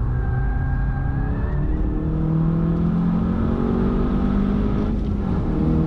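Seat Leon Cupra 300's turbocharged 2.0-litre four-cylinder pulling hard under full acceleration, heard from inside the cabin; its pitch climbs and drops back at an upshift, once about two seconds in and again about five seconds in.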